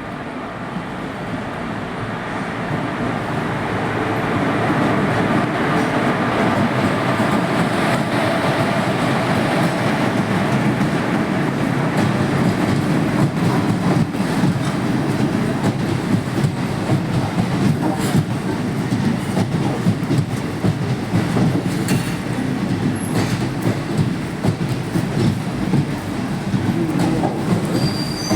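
Passenger train running on the rails, its wheels clattering over rail joints with a steady rumble that grows louder over the first few seconds. High wheel squeal begins right at the end.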